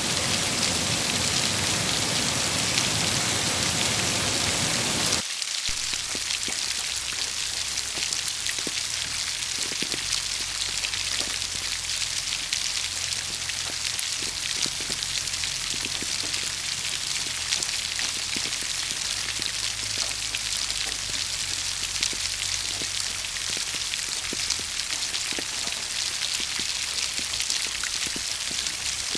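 Steady rain. About five seconds in it changes abruptly from a dense, heavy downpour to a lighter rain with distinct individual drops pattering.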